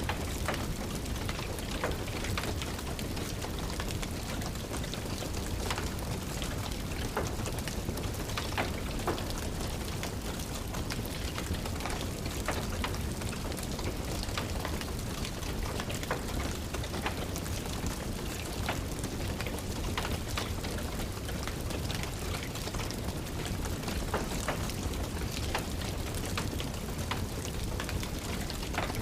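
Steady rain hiss with a wood fire crackling in a fireplace: scattered sharp pops and snaps over an even noise.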